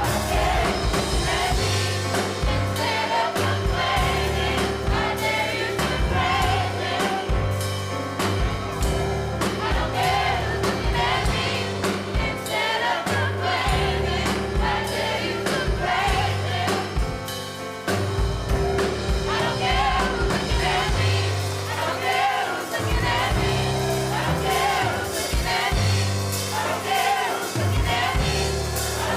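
Gospel choir singing with a live band: bass and drums keeping a steady beat.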